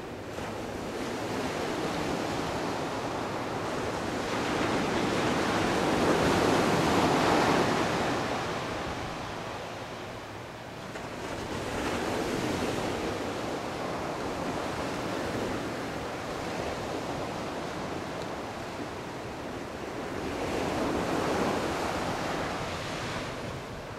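Calm Atlantic surf washing onto a beach: a steady rush of water that swells and fades as waves break, three times, loudest about seven seconds in.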